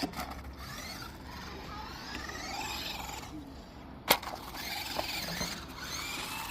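Electric motor of a radio-controlled car whining, its pitch rising and falling as the throttle changes, with one sharp knock about four seconds in.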